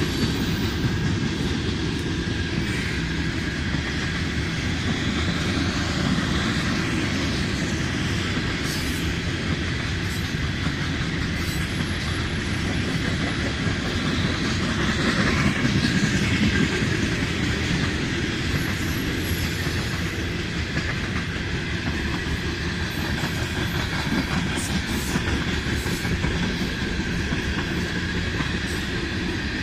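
Railroad cars rolling steadily past with a continuous low rumble and scattered clicks of the wheels over rail joints, a little louder about halfway through.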